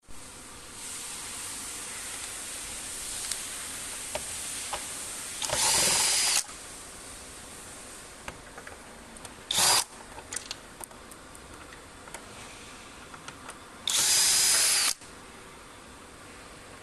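Electric drill-driver run in three short bursts, the middle one very brief, with light clicks and knocks of handling in between over a steady hiss.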